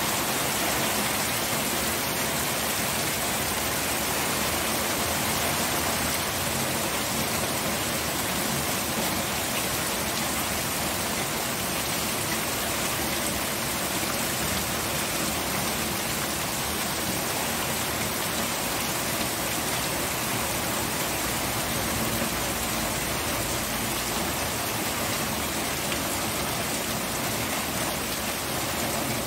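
Steady rain falling, an even hiss of drops on a surface that stays the same throughout.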